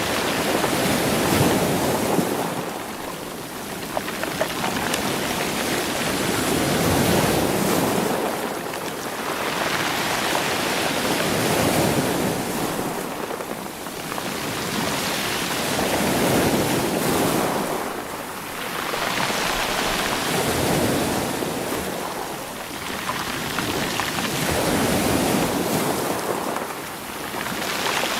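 Ocean waves breaking and washing over rocks and stones, each wash swelling and falling back about every four to five seconds.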